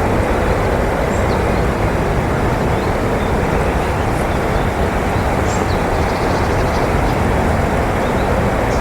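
Steady rushing outdoor background noise, with faint brief high chirps of small birds scattered through.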